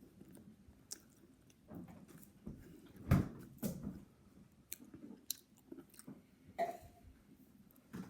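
A person biting into and chewing a doughnut, with irregular wet mouth sounds; the loudest bite comes about three seconds in.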